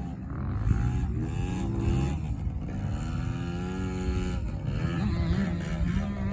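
Yamaha PW50 mini dirt bike's 49cc two-stroke engine revving, its pitch rising and falling back several times as the throttle is worked.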